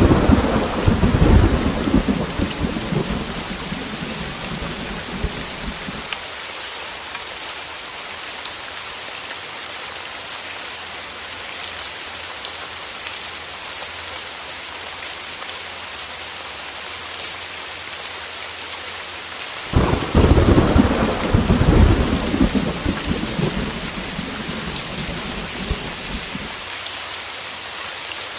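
Heavy rain hissing steadily, with two rolls of thunder: one already rumbling at the start and dying away after about six seconds, and another breaking suddenly about twenty seconds in and rumbling for several seconds.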